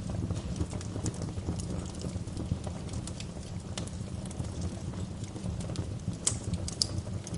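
Wood fire crackling in a fireplace: scattered sharp pops and crackles over a steady low rumble, with a couple of louder pops about six seconds in.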